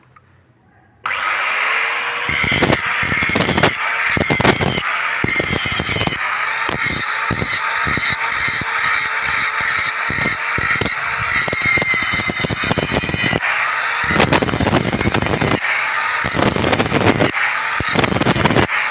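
Handheld electric polishing machine spinning up about a second in, then running hard on the lettering surface, its sound dipping and surging again and again as it is worked.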